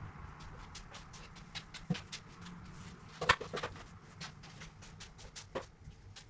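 Irregular light clicks and taps, a few a second, with one sharper knock about three seconds in.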